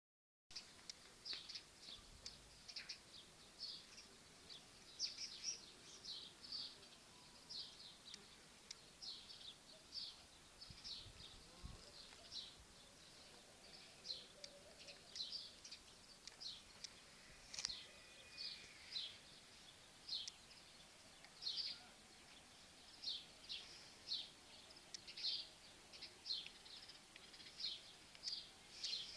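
Small birds chirping: short, high calls repeated irregularly, several every couple of seconds, over faint background hiss.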